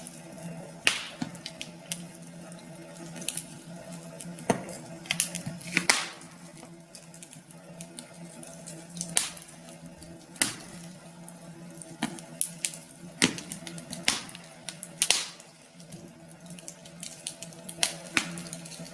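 Wood fire crackling, with irregular sharp pops and snaps, over a faint steady low hum.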